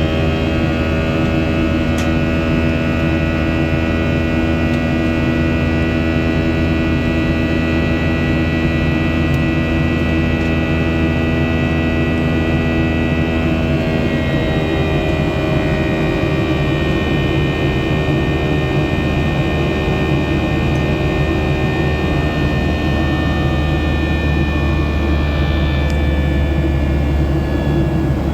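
Boeing 737-700 cabin noise in the climb: the CFM56-7B turbofans give a steady roar with a set of whining tones over it. About halfway through, the tones slide slightly lower.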